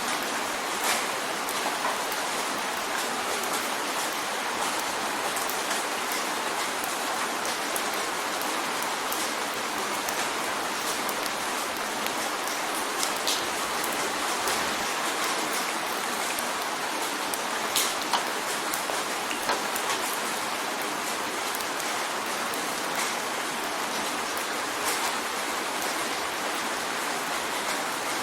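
Steady rain drumming on a window: a dense, even hiss of rain with scattered sharper drop hits standing out.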